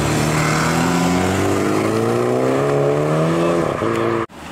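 Mini hatchback's engine accelerating away, its revs climbing steadily for about two seconds, then falling back, before the sound cuts off abruptly near the end.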